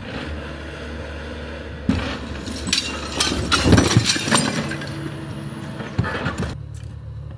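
Excavator engine running steadily while a building wall is torn down: a run of crashes, breaking and clinking debris, loudest in the middle, with a last knock about six seconds in.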